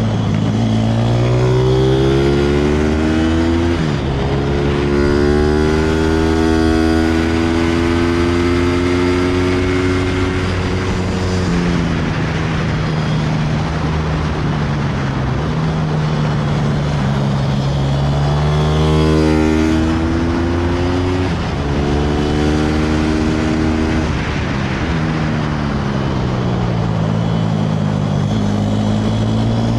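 160cc pit bike's single-cylinder four-stroke engine being ridden hard, its pitch climbing as it revs out and dropping sharply at shifts or when easing off for corners, several times over.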